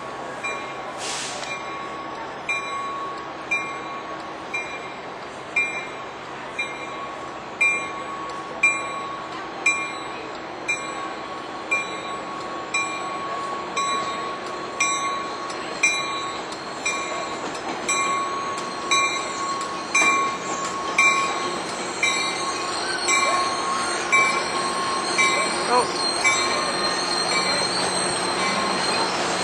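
Metrolink commuter train moving slowly through the station with its bell ringing steadily, about once a second. Wheels squeal on the track in the last few seconds.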